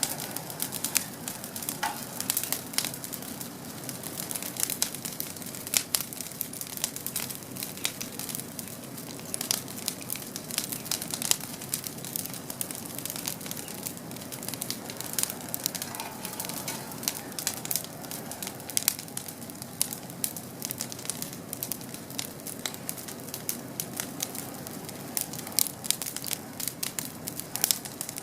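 Wood campfire crackling and popping, with many irregular sharp snaps over a steady hiss.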